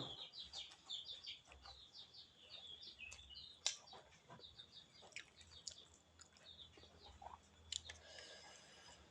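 Faint, rapid chirping of birds, with scattered soft clicks.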